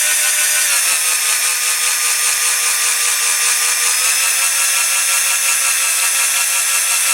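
Small electric drill running steadily at high speed with a 2.5 mm bit, drilling out a rivet post in a diecast zinc model; its whine drops a little about a second in and shifts again about four seconds in.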